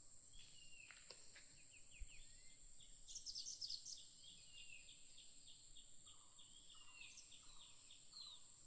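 Faint birdsong: a few falling whistles near the start, then runs of quick, short repeated chirps, over a steady thin high-pitched whine.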